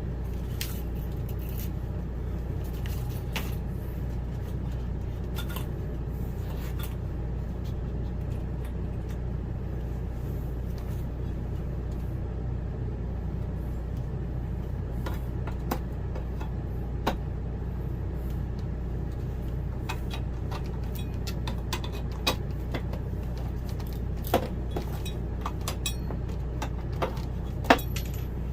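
Scattered clicks and knocks from work on wooden RV cabinetry, over a steady low hum. A few sharper knocks stand out in the second half.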